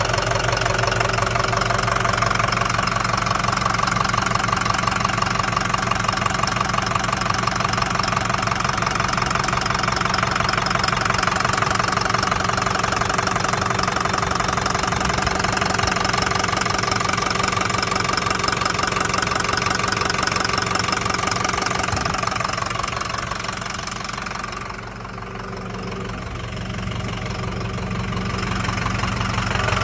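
2005 Ford F-350's 6.0 L Power Stroke V8 turbo-diesel running steadily with a rapid, even knocking in its sound, the bad engine noise the owner is trying to track down. The sound drops away for a few seconds near the end, then comes back up.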